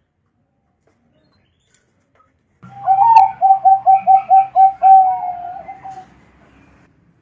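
Zebra dove (perkutut) singing: a quick run of about eight short coo notes followed by a drawn-out final note, starting a little under three seconds in.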